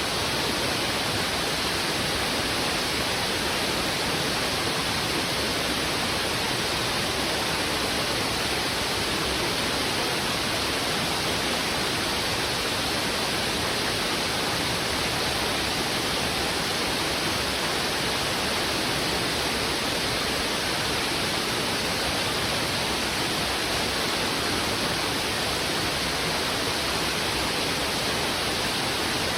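Fast, heavy river water rushing steadily over rocks: an even, unbroken noise of flowing water with no separate splashes, calls or changes.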